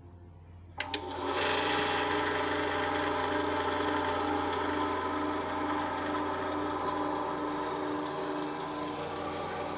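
8-inch RYU RBS 8 bandsaw switched on with a click about a second in, its motor spinning up over half a second and then running steadily with a machine whine.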